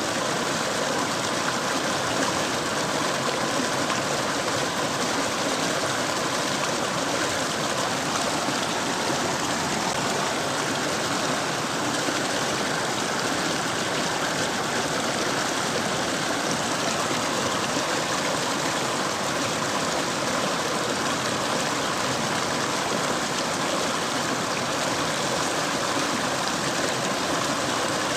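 Mountain river rushing and splashing over rocks in a steady, unbroken flow.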